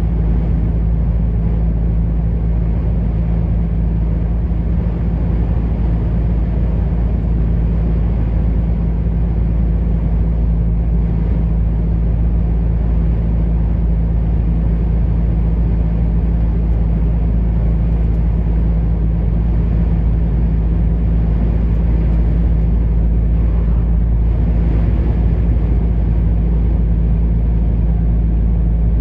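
Heavy truck driving along: a steady low engine drone with constant hum tones and road noise, unchanging throughout.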